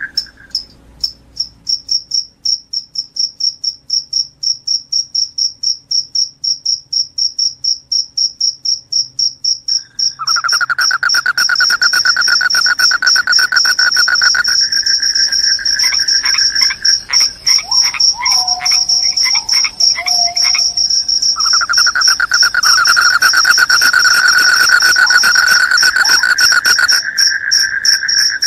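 Crickets chirping: a high chirp pulsing about three times a second, then about ten seconds in a lower, continuous trill joins and the high chirping runs together into a steady trill.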